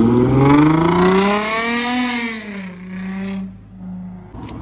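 Car engine accelerating, its pitch rising for about two seconds, then easing off and holding steady before it fades away; a short click near the end.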